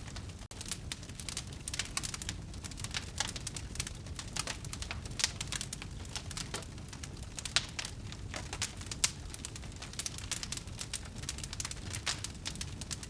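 Wood fire crackling in a fireplace: a dense, irregular run of sharp pops and snaps over a low rumble of burning, with a few louder pops scattered through.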